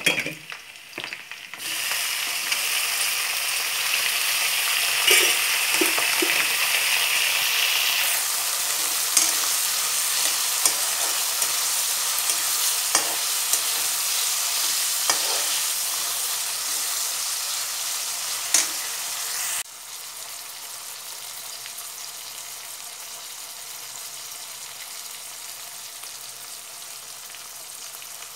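Food frying in a hot pan: a steady sizzle with occasional clicks of a stirring utensil. The sizzle comes up loudly about two seconds in and drops suddenly to a quieter sizzle about two-thirds of the way through.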